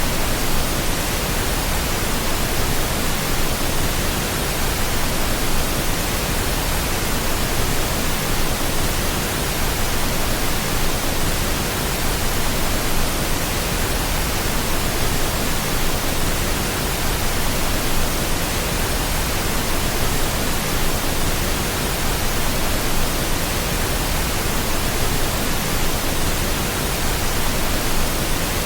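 Steady pink noise: an even, unbroken hiss with no changes in level or character.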